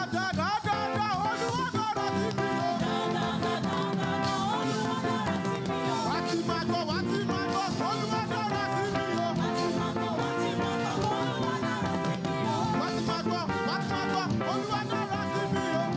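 Lively Yoruba cultural praise music from a live church band, with instruments playing and some singing.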